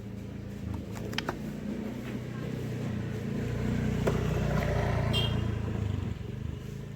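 A motor vehicle passing by, its low engine rumble building to a peak about four to five seconds in and then fading, with a few light clicks near the start.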